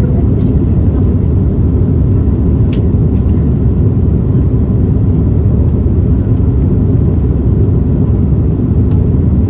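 Steady low rumble of engine and airflow noise inside the cabin of an Airbus A330-300 airliner in flight.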